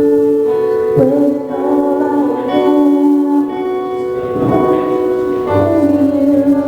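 Worship music played on a keyboard: sustained chords that change every second or so, with a voice singing faintly along in places.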